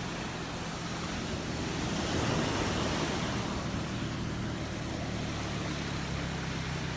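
Road traffic: a motor vehicle's engine and tyre noise rising to a swell about two seconds in as it passes, then a steady hum as traffic runs on.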